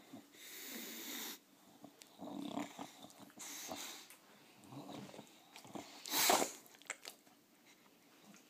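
A bully-breed dog reverse sneezing: a run of harsh, noisy breaths in irregular bouts, the loudest about six seconds in. The owner suspects reverse sneezing but is unsure what is wrong.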